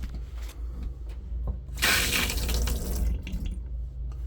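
Water gushing from an RV faucet, starting about two seconds in and easing off after a second and a half. It is the first flow through the lines of a newly installed tankless water heater.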